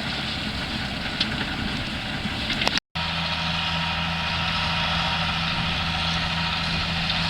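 Farm tractor engine running steadily while working a field. The sound cuts out briefly about three seconds in, then a tractor engine carries on with an even, steady hum.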